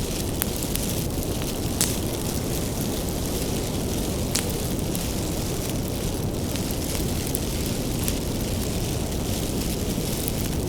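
Wood bonfire burning: a steady low rushing of the flames with scattered sharp crackles and pops from the firewood, a few louder snaps standing out.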